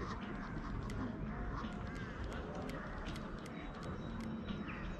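Birds calling in short, sharp chirps at an uneven pace, over a low steady rumble.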